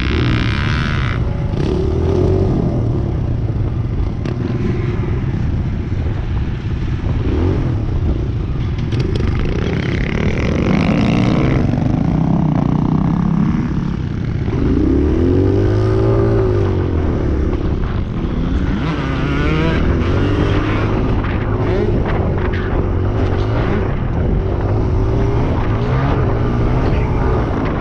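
Several motocross dirt bike engines running together, revving up and down as the bikes ride past; one rises and falls sharply in pitch about halfway through.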